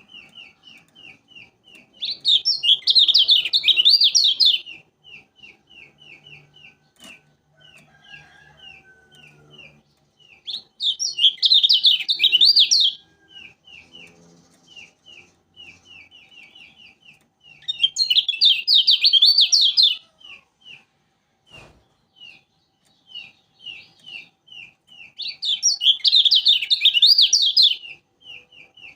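Kecial kuning (a Lombok white-eye) singing: a steady run of short, high chip notes, about three a second, broken four times by loud bursts of rapid, jumbled warbling a few seconds long.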